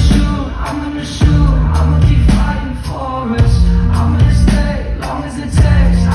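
Live pop-rock band music played loud, with heavy bass and drums, a singer's voice and loud surges about every two seconds.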